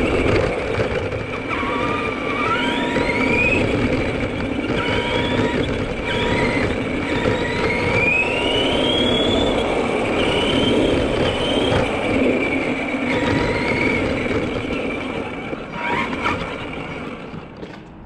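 Arrma Granite 4x4 radio-controlled monster truck running, its electric motor and gears whining and rising in pitch again and again as it speeds up, over a steady noisy rumble; it fades away near the end.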